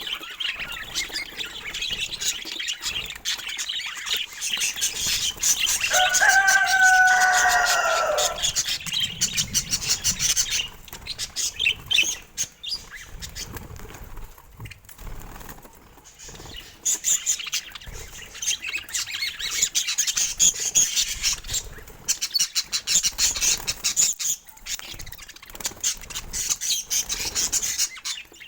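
Budgerigars chattering: a stream of rapid high chirps and clicks, with a longer, lower call about six seconds in.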